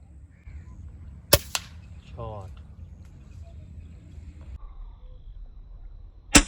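Two sharp gunshots, one about a second in and one at the very end, each followed a fraction of a second later by a fainter crack.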